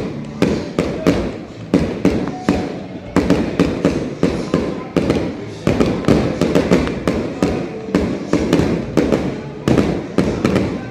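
Fireworks display: aerial shells bursting in a rapid, irregular barrage of sharp bangs, several a second, each with a short echoing tail.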